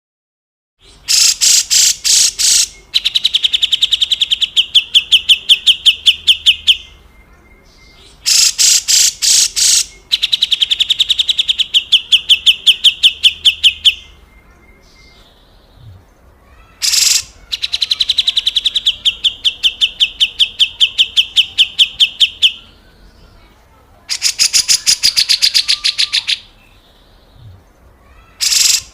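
Grey-cheeked bulbul (cucak jenggot) giving harsh, rasping scold calls: each phrase opens with a few loud strokes and runs into a fast rattling trill lasting several seconds, repeated about four times with short pauses.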